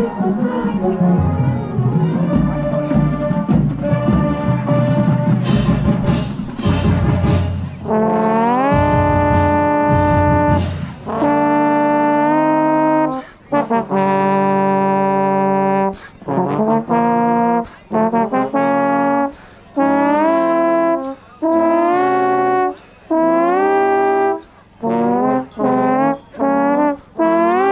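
A band's brass section playing, with trombones and baritones to the fore. First comes a dense, loud low passage with sharp percussion hits. About eight seconds in it moves to a string of held brass chords, each cut off by a short break.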